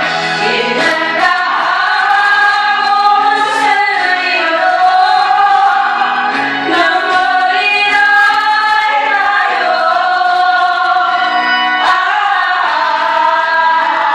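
A slow ballad sung by a woman over instrumental accompaniment, with long held, wavering notes.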